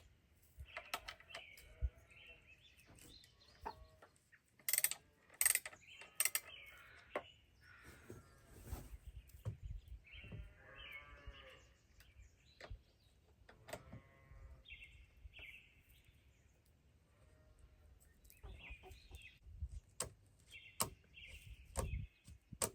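Birds chirping on and off, with scattered sharp clicks and knocks from hand work on a chainsaw's bar and chain while the chain tension is adjusted; the loudest clicks come in a cluster about five seconds in.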